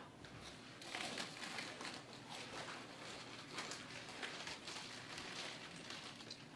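Irregular crinkling and crackling handling noises, a quick run of small clicks and rustles.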